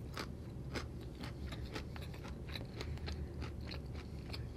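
A person chewing food with the mouth closed: soft, irregular mouth clicks about four a second over a low steady hum.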